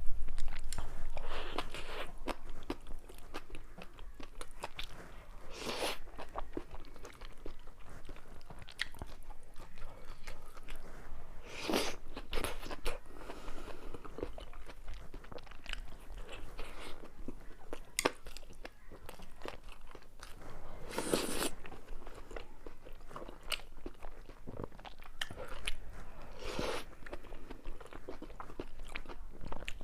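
Close-miked eating: steady chewing and smacking with crunchy bites, the louder crunches coming every few seconds.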